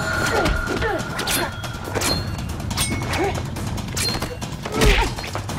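TV action-scene soundtrack: a rapid run of hits and crashes mixed with short vocal shouts or grunts, over background music.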